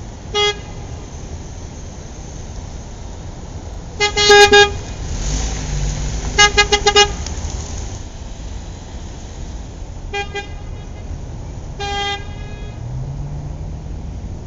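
Car horns tooting: a short beep, a louder longer blast, then a quick string of about five beeps and a few more short ones, over steady road noise. A car engine rises in pitch near the end.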